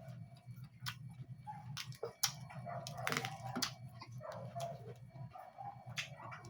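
Close-miked chewing and lip-smacking: irregular mouth clicks and smacks, several a second, over a steady low hum.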